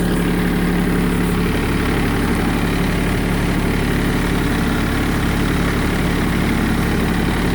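Kubota tractor's diesel engine running steadily at a low idle while it is being lined up for loading.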